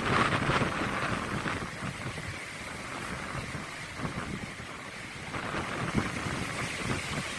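Rough sea surf washing onto the beach, with gusty wind rumbling on the microphone. The waves sound heavier than usual after heavy rain. The wash is loudest in the first second or so.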